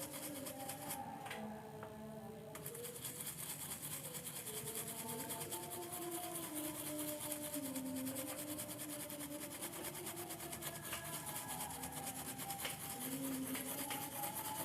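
Continuous scratchy rubbing as a circuit board is scrubbed clean with thinner to wash off its rosin coating.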